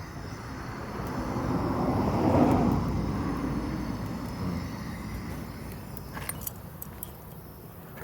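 A vehicle passing by, its noise swelling to a peak about two and a half seconds in and then fading away, followed by a few light metallic clicks near the end.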